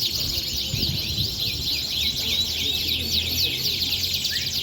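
Several canaries singing at once: a dense, unbroken chorus of fast overlapping trills and chirps.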